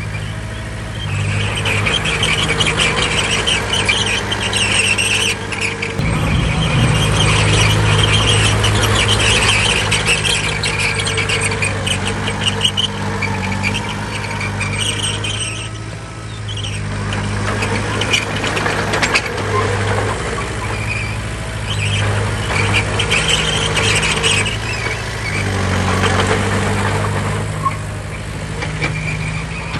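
Heavy diesel earthmoving machinery working: a steady engine note that swells and eases under load, with a high squeal and scattered clanks.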